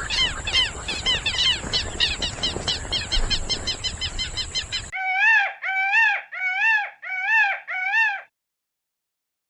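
A rapid run of bird calls, several a second, then an abrupt cut about five seconds in to five longer, clear calls that rise and fall in pitch, each followed by a short gap, before the sound stops.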